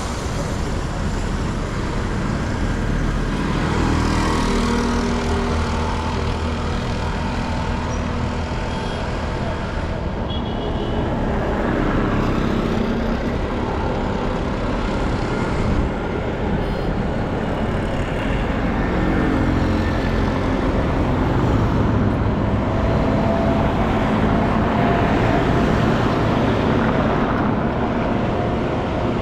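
Street traffic: motor vehicles running and passing, a continuous steady wash of engine and road noise.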